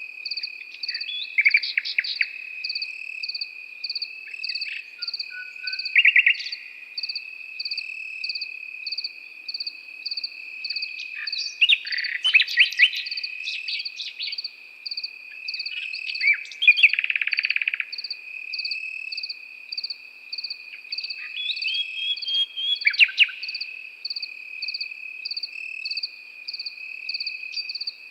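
Nightingale singing in separate phrases of rapid notes and trills, over crickets: one trilling without a break and another chirping in even pulses about twice a second.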